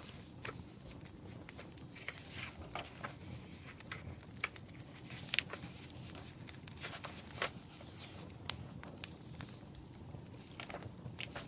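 Wood fire crackling: irregular pops and snaps of burning firewood, a few louder than the rest, over a low steady hiss.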